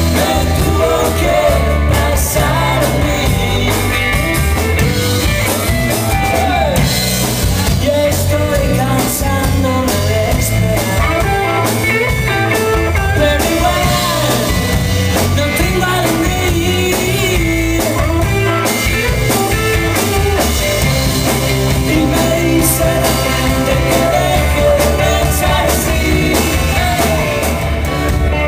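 Rock band playing an instrumental passage: drum kit and a heavy low bass under a guitar melody with gliding notes, at a steady loud level.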